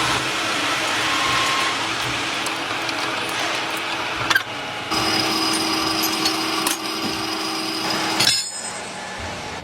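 Factory machinery noise: a dense, steady din, then after a sudden change about five seconds in, a machine running with a steady hum and a high whine that cuts off a little past eight seconds.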